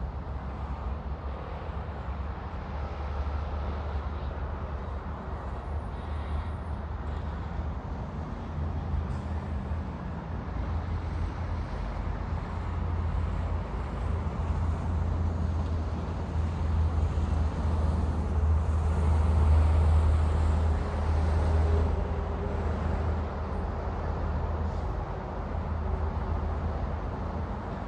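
Road traffic rumbling steadily as an outdoor ambience, swelling to its loudest about two-thirds of the way through as vehicles pass and then easing off.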